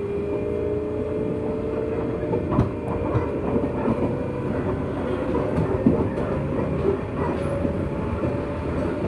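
JR West 201 series electric train running, heard from inside its motor car: a slowly rising whine over steady rolling noise, with a few sharp knocks from the wheels, the strongest about two and a half and six seconds in.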